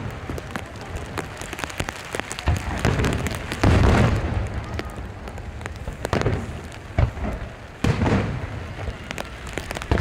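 Fireworks shells bursting over a steady hiss of wind and rain: two heavy low booms, about four and eight seconds in, among many sharp crackles and pops.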